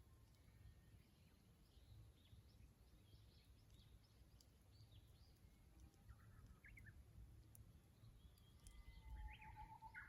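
Faint birdsong: scattered high chirps, then near the end a Japanese bush warbler's song, a held whistle of about a second followed by a quick higher flourish. A low rumble runs underneath.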